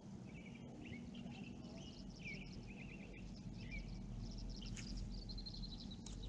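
Small birds chirping and trilling: quick repeated notes and short rising calls, with a thin high trill near the end, over a steady low background rumble.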